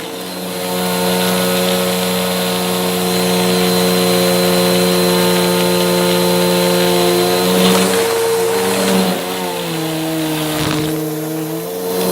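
Bissell vacuum cleaner running, its motor humming steadily over the hiss of suction while the brushroll crunches debris. In the second half the motor's pitch wavers and dips for a couple of seconds, then rises again near the end.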